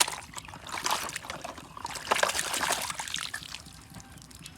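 Water trickling and splashing over a toy truck being washed: an irregular, fizzy pattering that swells about two seconds in and dies away after about three.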